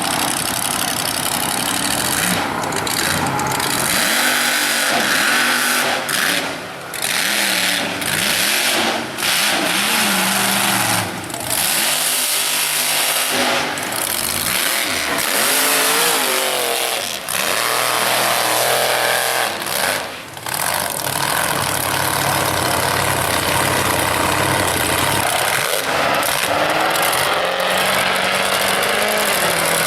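Mega mud truck engine revving hard, pitch climbing and falling with the throttle, with a few brief lifts off the throttle and a steadier run near the end.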